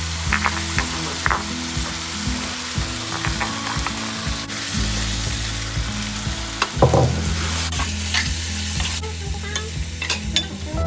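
Potato vegetable curry sizzling in a pan, with water just added for a light gravy, while a spoon stirs and scrapes against the pan in short clicks. There is a louder knock about seven seconds in.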